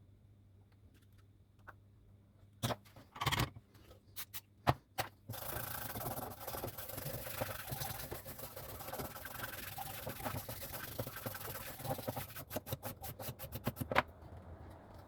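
A few handling clicks, then about seven seconds of steady rubbing or scrubbing against a hard surface, ending in a quick run of scratchy clicks and one sharp click.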